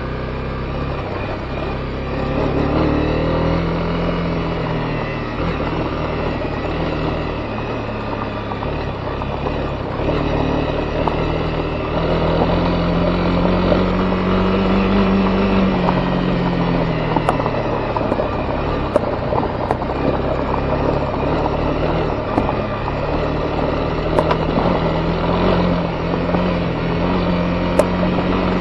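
Honda CB250R's single-cylinder four-stroke engine running under way on a dirt road, its pitch rising and falling as the throttle is worked, over a steady rush of road and wind noise. A few faint clicks come in the second half.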